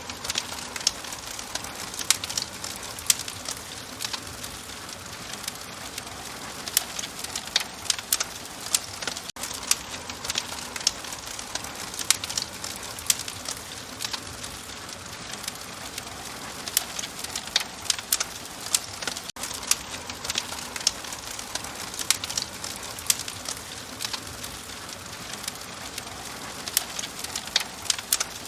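Wood fire in an open fireplace crackling steadily, with frequent sharp pops over a soft hiss.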